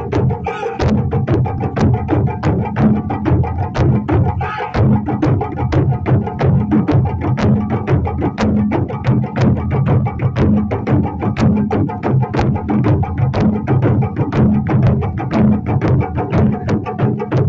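Japanese taiko drums played in a fast, steady rhythm: a run of sharp, even strokes, several a second, over a deep sustained drum tone.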